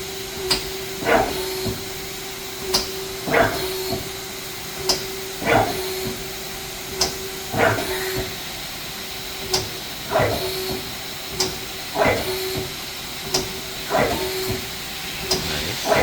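Mazak Quick Turn CNC lathe running with its slide moving back and forth: a steady hum with a hiss, and a swish alternating with a sharp click roughly every second, repeating about every two seconds.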